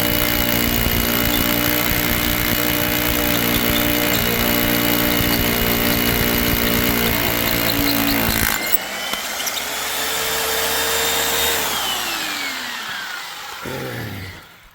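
Hilti rotary hammer drilling an anchor hole into concrete, running hard and steady. About eight and a half seconds in the load drops off, and the motor runs on lighter before winding down with falling pitch and stopping near the end.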